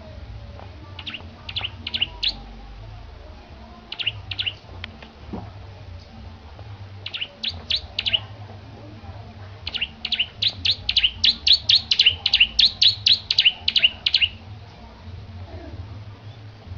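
Petarukan ciblek (bar-winged prinia) singing: short bursts of three or four sharp, high chirps, then a long rapid run of about four notes a second near the end. A steady low hum lies underneath.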